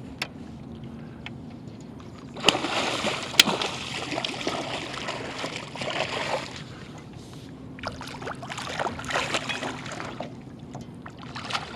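Water splashing in two long stretches, from a hooked blue catfish thrashing at the surface beside the boat while it is played and tired out, with a couple of sharp knocks.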